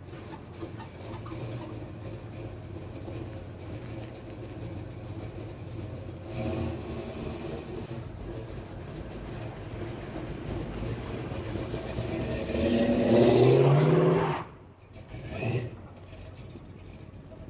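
Car engine running steadily, then revving up, rising in pitch and getting louder, before the sound drops away suddenly about fourteen and a half seconds in.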